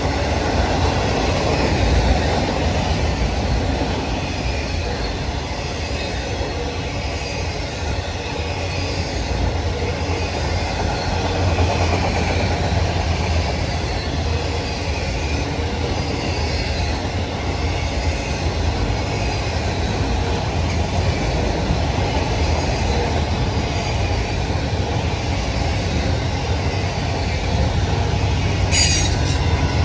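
Norfolk Southern freight train cars rolling steadily past, steel wheels clattering over the rail joints with faint wheel squeal. A short, sharp high screech comes near the end.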